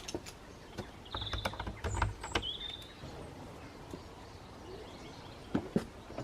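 Clicks, knocks and a dull thump from about a second in as a dog's breakfast is being got ready, with two short high chirps in the same stretch.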